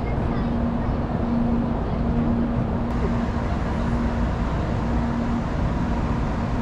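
Steady rumble of a Tokaido Shinkansen train standing at the platform, with a low hum that keeps cutting in and out for about half a second at a time.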